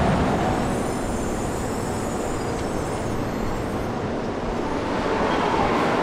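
Train running along the track, a steady rush of wheel and rail noise.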